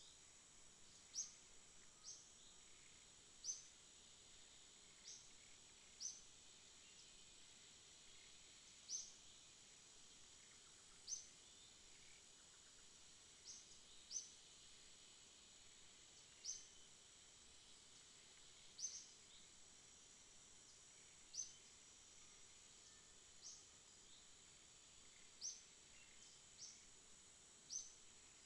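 Night insect chorus: a faint, steady high-pitched drone, with short high chirps repeating irregularly every one to two seconds.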